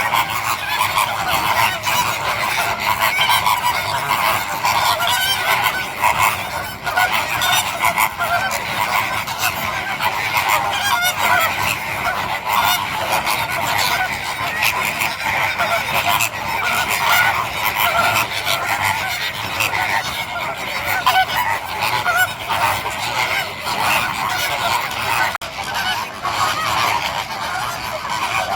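Dense, continuous chorus of many birds calling over one another without a break.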